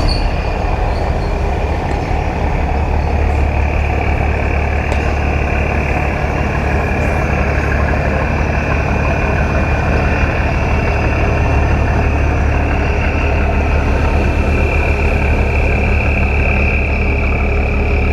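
Boat engine running steadily: a loud, even low rumble with a steady higher whine over it.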